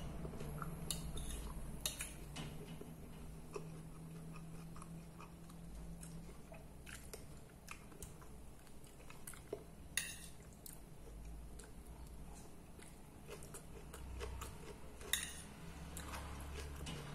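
Close-up chewing of a mouthful of rice, beans and fried chicken breast, with a metal spoon and fork clinking against the plate a few times, sharpest about ten and fifteen seconds in. A low steady hum runs underneath.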